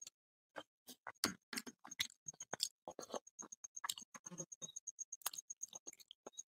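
Close-up eating sounds from a person eating with their hand: irregular wet lip smacks and chewing clicks, with fingers scraping food off a plate around the middle. A faint, fast high ticking runs underneath from about three seconds in.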